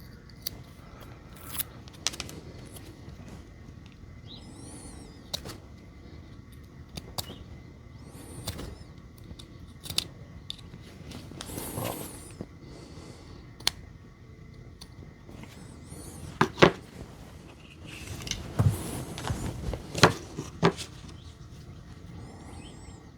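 Scattered small clicks and short scrapes of the stuck shrink wrap and plastic top insulator being picked and pried off an 18650 lithium-ion cell, with a louder cluster of scraping clicks in the second half.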